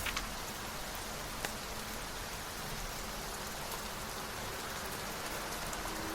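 Steady rain falling on a surface, with a few sharp drop ticks near the start and about a second and a half in.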